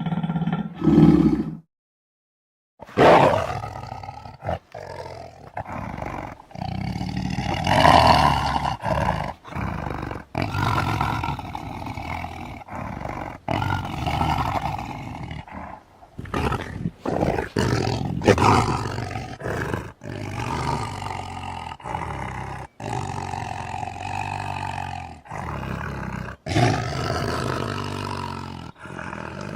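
Video-game Tyrannosaurus rex roar and growl sound effects, played one after another as a string of separate roars a second or a few seconds long, with short breaks between them and a brief silence about two seconds in.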